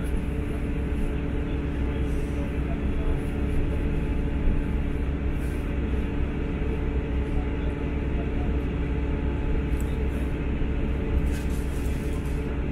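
Cabin sound of a BR Class 159 diesel multiple unit running at speed, heard inside the passenger saloon: a steady rumble of wheels on the track and the underfloor diesel engine, with a steady hum over it.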